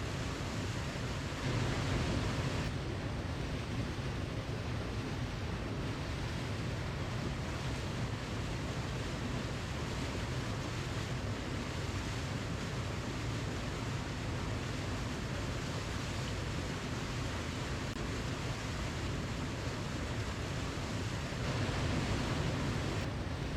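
Waterfall rushing in a steady, even hiss, swelling slightly louder about two seconds in and again near the end.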